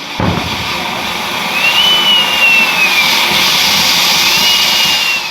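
A firework burning with a loud, steady hiss for about five seconds. Twice a faint whistle rises a little and then falls away.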